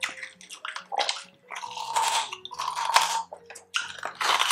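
Close-miked chewing and crunching of crispy fried pork belly, with wet mouth and lip smacking, in rapid irregular bursts.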